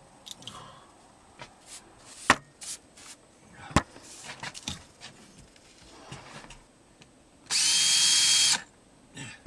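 Scattered knocks and scrapes of work on attic boards, then a power drill running at steady speed for about a second near the end.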